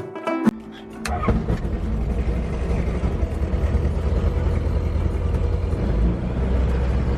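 Light aircraft's engine and propeller running, a steady low drone with hiss, heard from inside the cabin; it comes in suddenly about a second in, after a short bit of guitar music.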